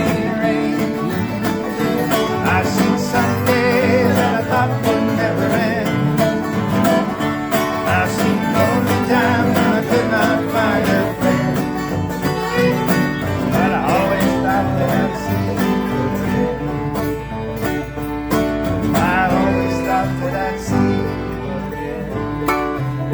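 Acoustic country band music, with plucked strings carrying a steady accompaniment under a wavering melody line.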